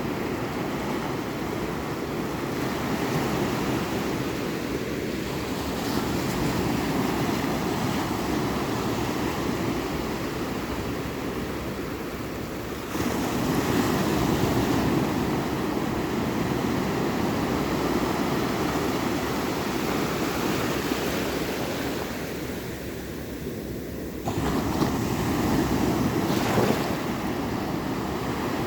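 Ocean waves washing onto a shore: a continuous rushing surf, louder with each incoming wave, with sudden jumps in level about 13 seconds and 25 seconds in.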